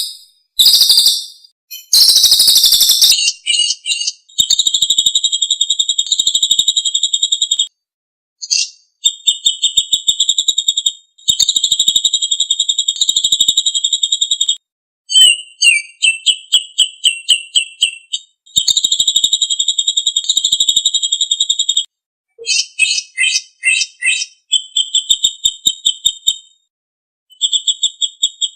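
Songbird singing in long, rapid, high-pitched trills of a few seconds each, broken by short pauses and by choppier chattering phrases.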